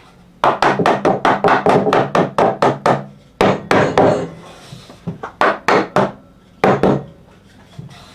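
Rapid runs of sharp knocks on a wooden workpiece, about six a second at first, then shorter runs and a few single knocks near the end.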